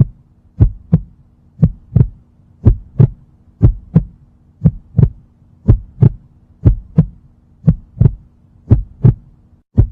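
Heartbeat sound effect: a steady lub-dub double thump repeating about once a second, over a faint low hum.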